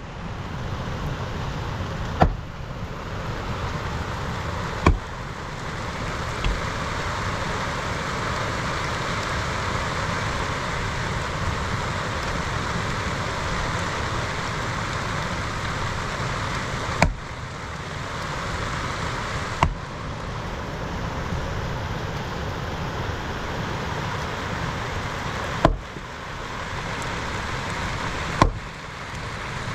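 Steady heavy rain, a continuous hiss, broken by about six sharp clicks.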